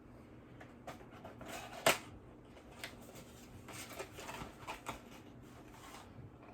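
Items and their packaging being handled and rummaged: irregular rustling with scattered clicks, the loudest a sharp click about two seconds in.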